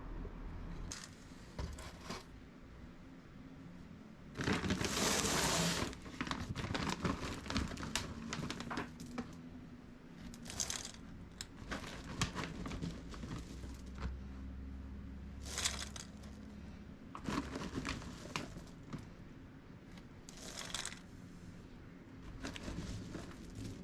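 Crinkling and rustling handling noises, with short clicks scattered throughout. One louder rustling burst lasts about a second and a half, about four seconds in.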